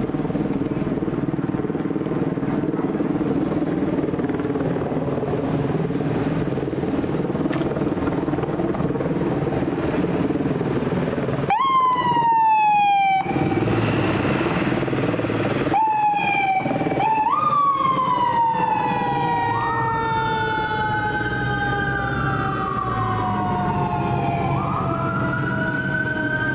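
Heavy fire-apparatus engine running steadily, then, after a sudden cut about eleven seconds in, fire engine sirens wailing in falling and rising glides, broken by a loud noisy blast of about two seconds. From about twenty seconds in two sirens sound together at different pitches, one falling slowly while the other rises.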